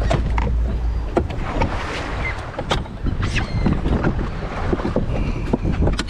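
Wind buffeting the microphone, a heavy fluttering rumble, with scattered short knocks and clicks throughout.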